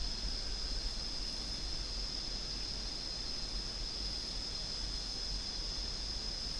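Steady outdoor ambience dominated by a constant high-pitched insect drone, like cicadas, over a faint low rumble.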